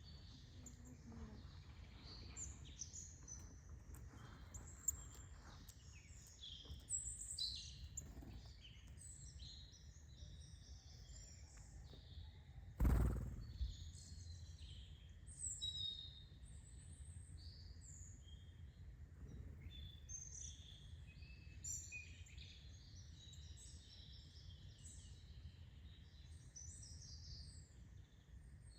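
Several small birds chirping and twittering in short, high calls throughout, over a faint steady low rumble. One sharp knock about thirteen seconds in is the loudest sound.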